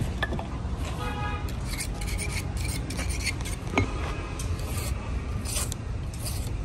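Irregular rasping scrapes, about a dozen short strokes, over a steady low rumble, with a brief squeak about a second in.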